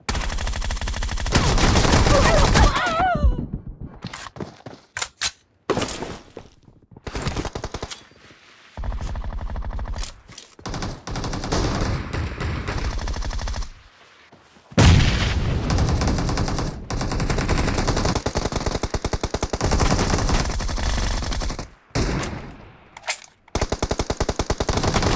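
Automatic gunfire in a shooter video game: long bursts of rapid shots, separated by a few short pauses.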